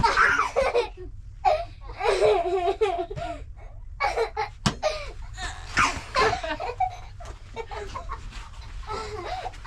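People laughing in several bursts, with a child's voice among them.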